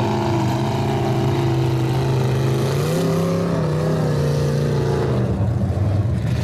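Large truck engine running steadily, then revving up about three seconds in, holding the higher speed for a couple of seconds and dropping back.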